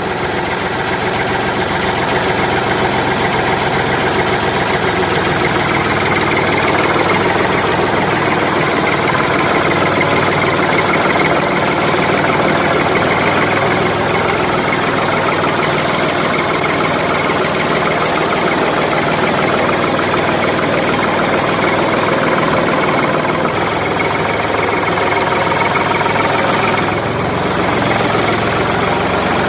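A motor running steadily and loudly without a break, with no change in speed.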